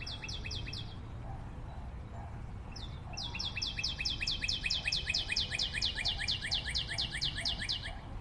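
A bird singing a fast trill of high, downward-sliding notes, about seven a second: a short run at the start, then a longer run from about three seconds in.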